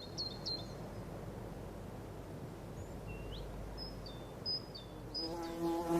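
Small birds chirping in short, high notes over a steady outdoor background hiss. Near the end a steady buzzing tone comes in.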